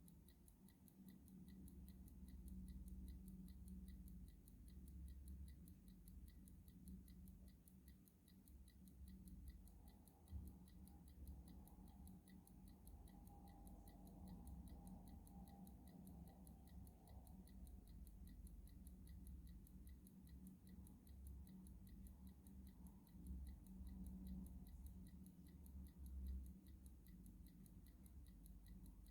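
Clock ticking steadily and faintly, an even run of light ticks over a low background hum.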